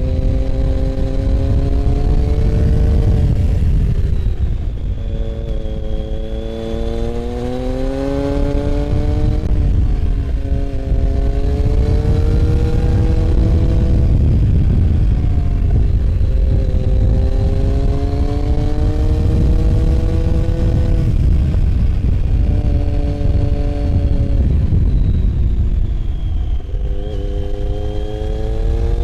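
Motorcycle engine under way, its pitch climbing under acceleration and dropping back several times, over a heavy, steady low rumble.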